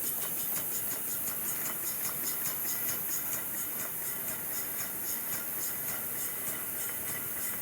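Small marine steam engine with a piston valve running, its exhaust chuffing and hissing in a quick, even beat.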